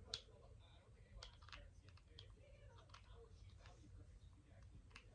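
Faint, scattered clicks and taps of makeup cases and tools being handled, with one sharper click just after the start, over a low steady hum.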